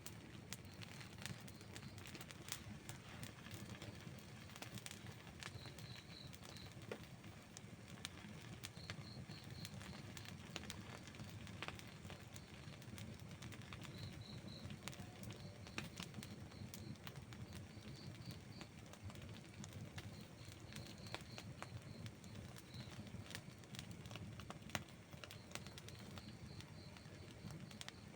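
Wood campfire burning: a low steady rush of the flames with frequent small crackles and occasional sharper pops. Faint high chirps in short groups of three or four recur every second or two.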